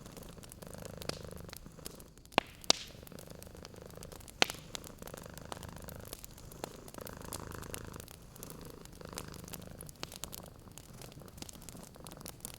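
Domestic cat purring, a low rumble that swells and fades in rounds of about two seconds with its breathing. A wood fire crackles throughout, with a few sharp pops; the loudest come about two and a half and four and a half seconds in.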